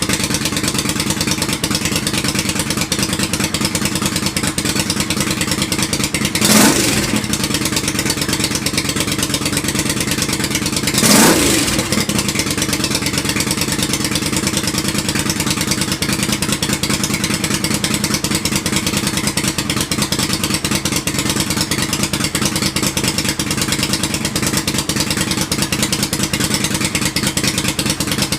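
Freshly rebuilt liquid-cooled motorcycle engine idling steadily on its first start-up, blipped twice with a quick rev that rises and falls back to idle about six and eleven seconds in.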